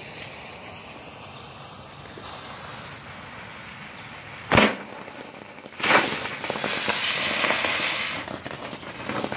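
Small consumer fountain firework (Sky Eagle Kung Fu Panda) spraying sparks with a steady hiss, a sharp pop about four and a half seconds in, then a louder burst of hissing and crackling for about two seconds that tapers off into scattered crackles near the end.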